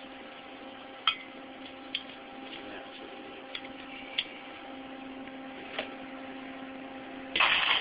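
Steady electrical hum from a flux-core wire-feed welder setup, broken by a handful of sharp metallic clicks. Near the end the arc strikes and a loud, even crackling hiss of flux-core welding starts abruptly.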